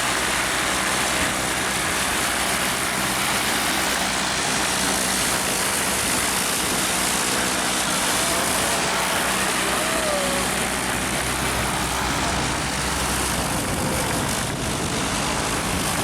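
A steady engine drone under a constant loud hiss, with no change in level.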